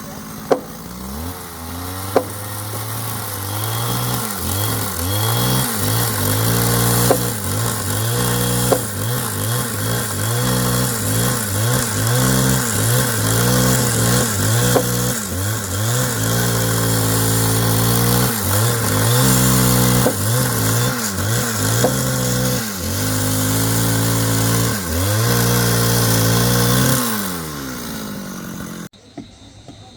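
A small engine-powered drill boring into wood, running hard. Its speed dips and recovers over and over as the bit bites, then it winds down near the end.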